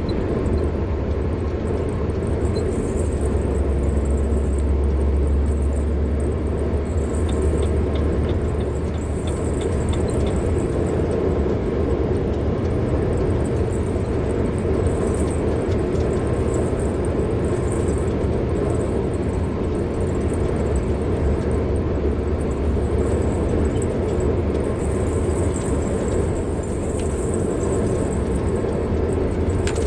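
A car being driven along a road, with a steady low rumble of engine and tyre noise.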